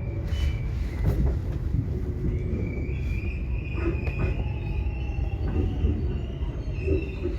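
Subway train running, with a steady heavy low rumble. A thin, high wheel squeal comes in about two and a half seconds in and holds, with a few scattered knocks.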